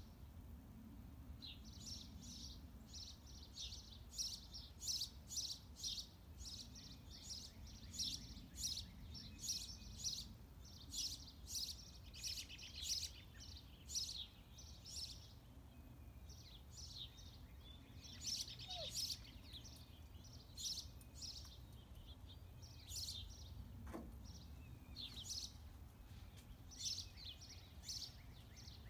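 Small birds chirping: many short, high chirps in quick clusters, over a low, steady background rumble.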